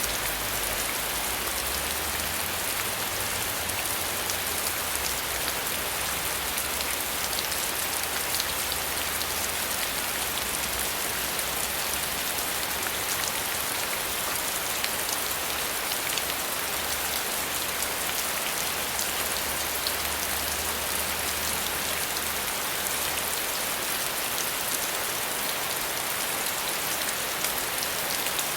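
Steady rainfall, many drops pattering on a surface with a constant hiss and fine individual drop ticks.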